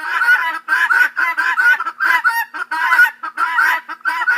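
Guinea fowl calling: a harsh, rapid chatter of short repeated calls, about three to four a second.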